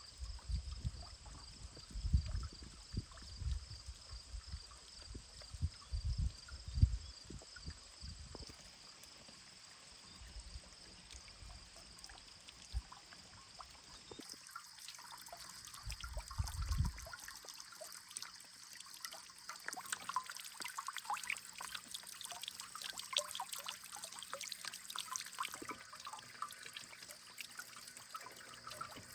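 Water trickling, with irregular low rumbling thumps in the first several seconds.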